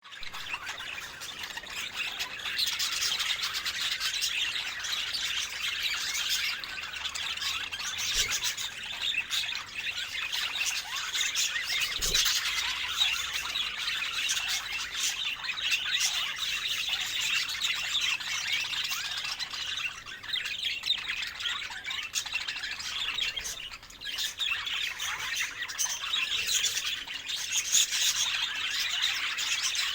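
Budgerigars chattering without a break: a dense mix of chirps, warbles and squawks.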